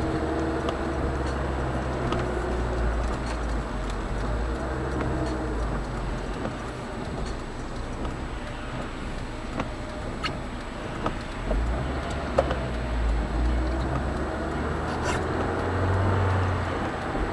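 A car's engine and road noise run steadily at a low pitch. A few light clicks can be heard, but there is no loud impact.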